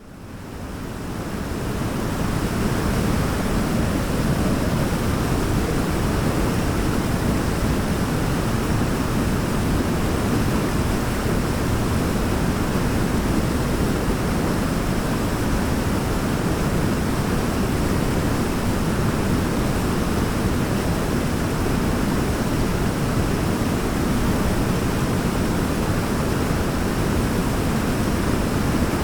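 Steady rushing of a waterfall, fading in over the first two seconds and then holding at an even level.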